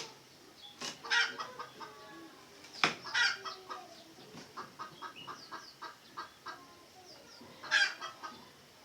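Red junglefowl clucking and calling in a run of short, quick notes, with a couple of sharp knocks, one at the start and one about three seconds in.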